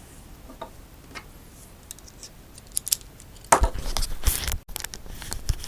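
Handling noise of the electric unicycle's parts being worked apart: a few light clicks, then from about three and a half seconds in, loud irregular scraping and clattering as the wheel assembly is pulled loose.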